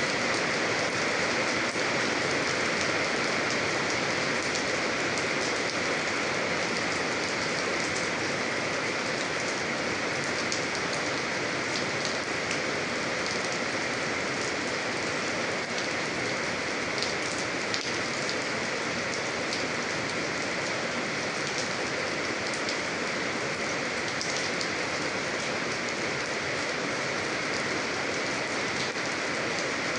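Steady, calm rain falling, with scattered individual drops ticking on a surface.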